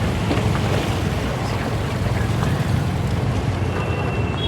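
Wind rushing over the microphone, mixed with road and engine noise from a moving scooter. A thin, steady high tone comes in near the end.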